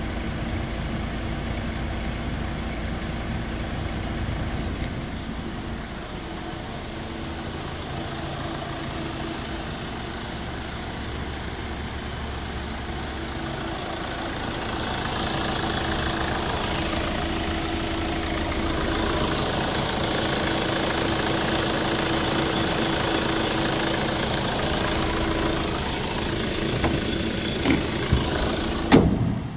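Hyundai i30 engine idling steadily, getting somewhat louder about halfway through. Near the end come a few clicks and a sharp knock.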